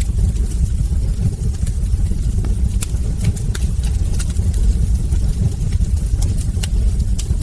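Wood fire burning in a fireplace: a steady low rumble with scattered sharp crackles and pops, a dozen or more through the stretch.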